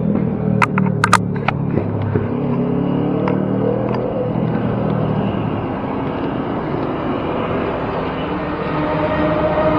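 Busy street traffic heard from a moving bicycle: motor vehicles running close by, with a few sharp clicks about a second in.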